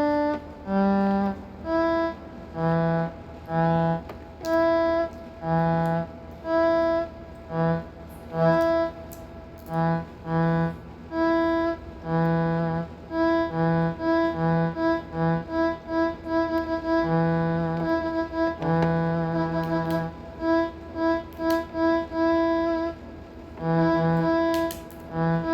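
A melody played note by note on a musical instrument with a sustained, violin-like tone, short notes mixed with a few longer held ones.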